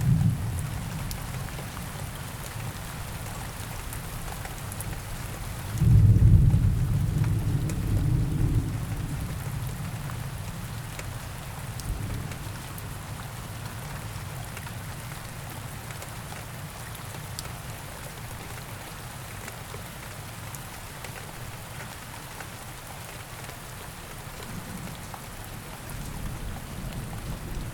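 Steady rain falling, with rolls of distant thunder: a deep rumble fades away at the start, a sudden louder roll comes about six seconds in and dies away slowly, and another roll builds near the end.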